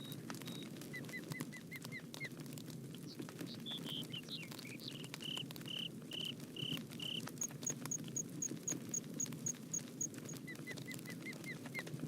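Wood fire crackling steadily with sharp pops, while birds sing over it in runs of short chirps, including a quick series of about ten high notes in the second half.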